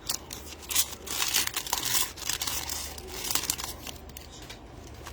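Foil trading-card pack wrapper crinkling and tearing open, a run of crackling rustles that dies down near the end.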